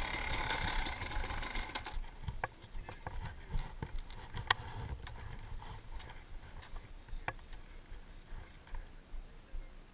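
Dirt bike engine idling, then shut off abruptly about two seconds in. After that only a low fluctuating rumble and a few sharp clicks remain.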